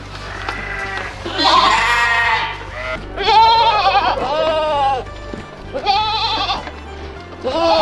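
Several bleats, each a short quavering call about half a second to a second long, from a goat or sheep, over background music.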